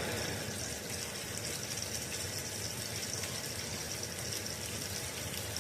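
Steady, even hiss with a low hum underneath and no distinct strokes or crackles.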